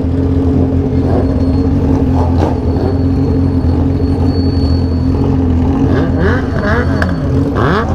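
Motorcycle engines with aftermarket exhausts running steadily on a ride. Near the end, several engine notes rise and fall as the bikes rev.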